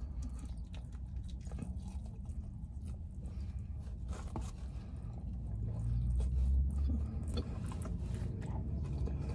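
Close-miked mouth sounds of a person biting and chewing a sauced fried chicken wing, with small smacks and clicks, over a low steady rumble that swells briefly about six seconds in.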